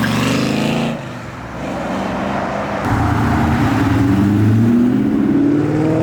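Car engine revving hard as it accelerates away: the pitch climbs for about a second, drops off briefly, then climbs steadily again through the last three seconds.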